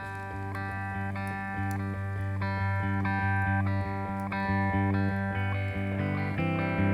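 Instrumental music: plucked guitar notes in a slow, repeating desert-blues riff over sustained low bass notes, building slightly in loudness.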